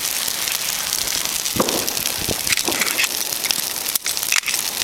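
Signal fire of two tyres and waste paper burning well: a steady hiss with scattered crackles and pops.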